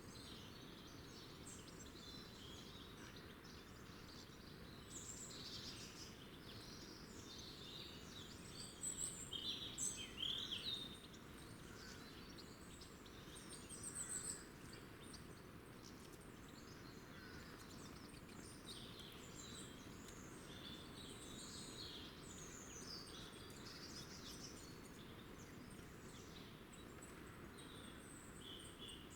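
Small wild birds chirping and calling many times, in short high notes, with the loudest flurry about a third of the way in, over a steady low background hiss.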